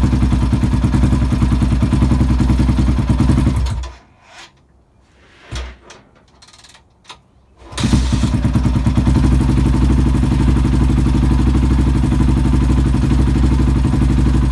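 KTM 450 four-stroke single-cylinder dirt bike engine idling, then shut off about four seconds in. After a few seconds of near quiet with a few short knocks, it fires and idles steadily again, kick-started by hand.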